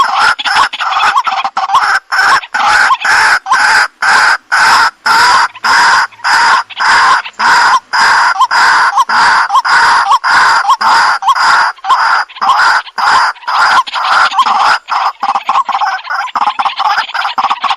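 Waterhen (jal murgi) calling: a loud, harsh note repeated about twice a second in an unbroken series.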